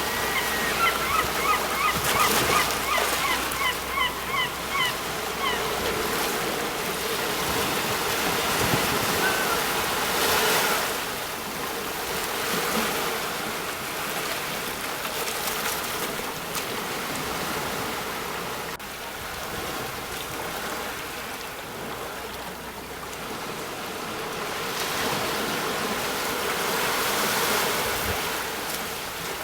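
Sea waves breaking on a shore: a steady wash of surf that swells and falls, loudest about ten seconds in and again near the end. In the first few seconds a bird calls a quick series of short notes.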